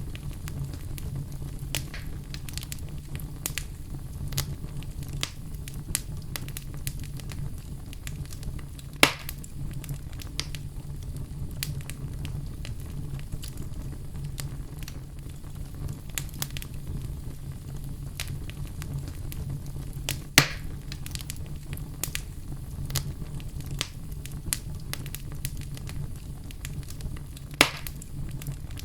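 Wood fire crackling steadily over a low rumble, with many small pops and three louder snaps about nine, twenty and twenty-eight seconds in.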